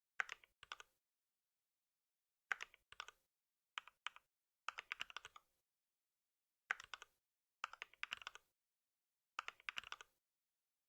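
Typing on a computer keyboard in short bursts of several keystrokes each, about seven bursts with silent pauses between them.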